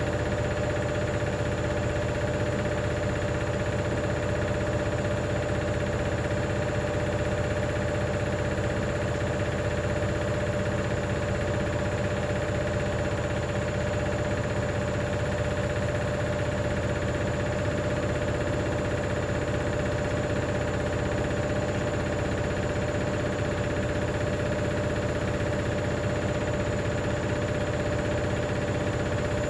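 Hoover DynamicNext DXOA410C3 washing machine on a steady, unchanging spin, with a constant motor whine over rattly drum noise. The rattle comes from a £1 coin trapped under the heating element, which the owner believes was the cause of the noise.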